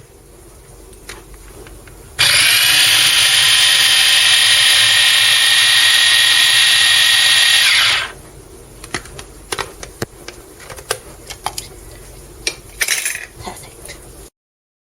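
Kenwood CH180B mini chopper's motor running for about six seconds, a steady high whine, then stopping abruptly. Scattered clicks and knocks of its plastic bowl and lid being handled follow.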